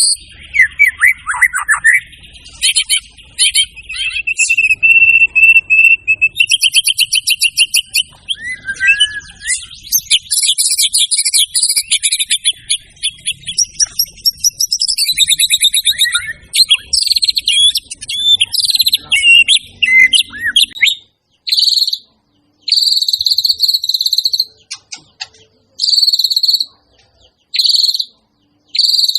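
White-rumped shama (murai batu) singing a long, varied song of whistles, fast trills and pitch glides. About two thirds of the way through it switches to short repeated buzzy notes at one pitch, with pauses between them.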